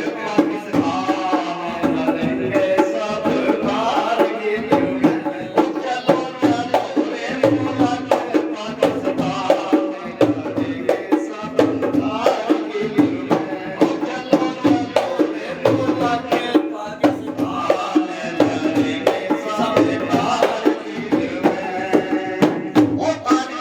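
Rasiya folk music from Braj: a wavering melody carried over a steady, driving dhol beat.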